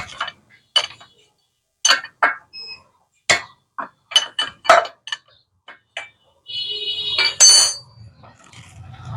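Metal tools clinking and knocking against a Bajaj Discover 135 engine as its tappet covers are undone, a string of sharp separate clicks. About two-thirds of the way in comes a longer ringing scrape and the loudest clank.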